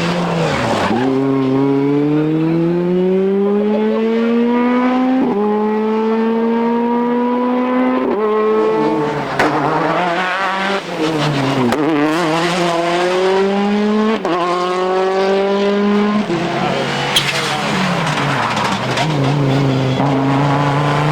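Rally car engine accelerating hard up through the gears, the pitch climbing and then dropping at each upshift, falling away under braking with downshifts around ten seconds in and again near the end before pulling steadily once more.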